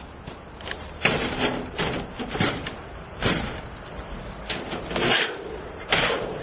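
A burglar-resistant window screen being struck and forced repeatedly by hand, giving a series of loud, irregular bangs and scrapes as someone tries to break through it.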